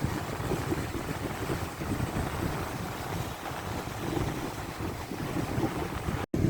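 Strong wind buffeting the microphone over the rush of big lake waves. The sound cuts out for an instant near the end.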